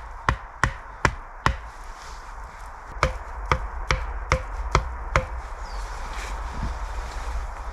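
Repeated blows of a tool striking wood, in two runs: four strikes, a pause, then six more at about two a second, each a sharp knock with a short ring.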